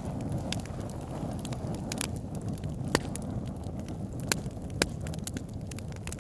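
Wood fire burning in a fireplace: a steady low rush of flames with sharp, irregular crackles and pops, the loudest a few seconds in.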